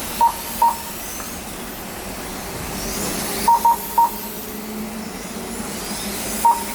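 Lap-timing system giving short, high single beeps as RC motorcycles cross the timing line: two beeps, then three close together, then one more. Underneath is the faint high whine of the electric RC motorcycles' motors rising and falling as they pass.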